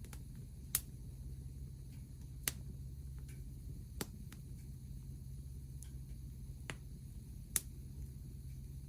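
Wood fire burning in a homemade mesh fire pit, crackling with sharp pops every second or so, a few of them loud, over a low steady rumble.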